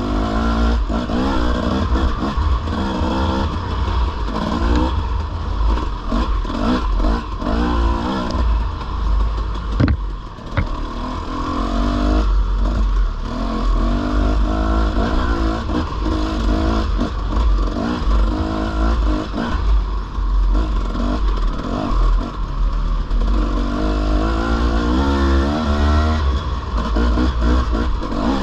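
Dirt bike engine being ridden along a trail, its pitch rising and falling over and over as the throttle is opened and closed, over a heavy low rumble. One sharp knock about ten seconds in.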